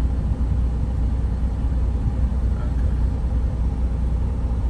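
Truck's diesel engine idling steadily, a constant low rumble.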